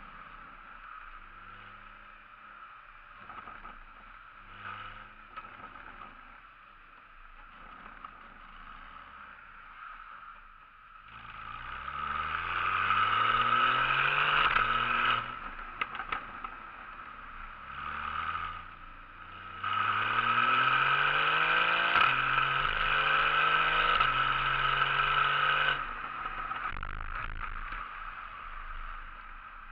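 Porsche 981 Boxster's flat-six through an M&M aftermarket exhaust, running quietly at first, then accelerating hard about a third of the way in with the exhaust note rising through the revs. It drops back briefly, climbs again, holds a loud steady note for a few seconds, then eases off near the end.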